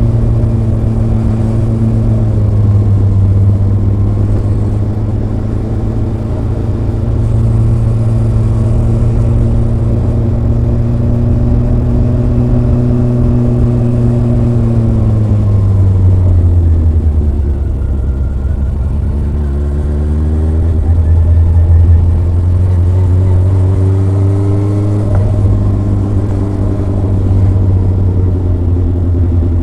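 Kawasaki ZRX's inline-four engine and exhaust on the move. It holds a steady note, then falls in pitch as the bike slows about halfway through. It then climbs twice with a sudden drop between, as it accelerates up through the gears, and settles into a steady cruise near the end.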